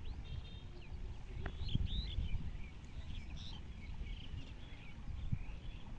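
Small birds chirping in short, quick calls over a low, irregular rumble like wind on the microphone.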